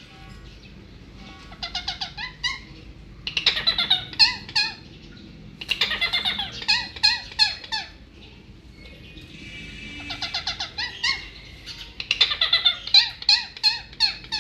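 Pet parrots squabbling: five bouts of rapid, harsh chattering calls, each lasting a second or two, with short quiet gaps between them.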